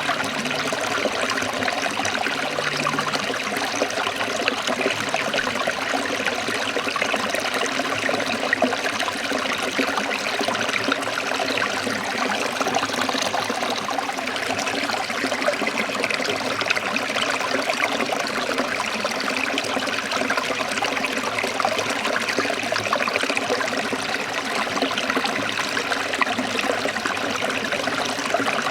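Forest stream trickling and splashing over rocks in a small waterfall, a steady even rush of water.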